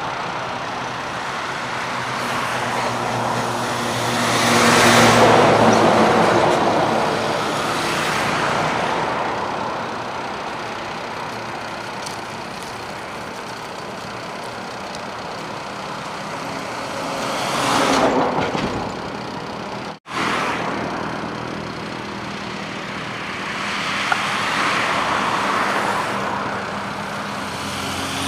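Highway traffic: vehicles pass one after another, each swelling up and fading away, over a steady low engine hum. There is a brief break about two-thirds of the way through.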